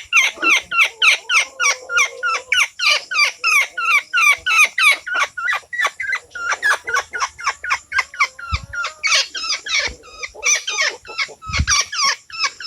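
A woodpecker caught in chicken netting giving a rapid string of sharp, falling distress calls, about four a second. A couple of dull thumps come in the second half.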